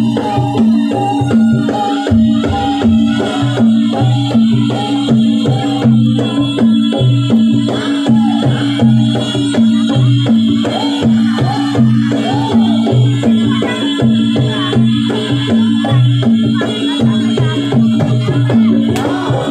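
Live accompaniment music for a Javanese trance dance: a steady, repeating pattern of low pitched percussion with rattles and hand percussion over it, and a wavering melody line entering about eight seconds in.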